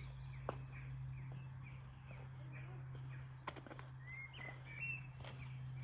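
Faint bird chirps over a steady low hum, with a few sharp clicks.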